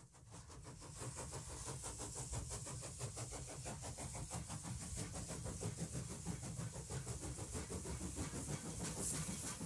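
Train running: a rapid, even beat of clatter under a steady hiss, fading in over the first second.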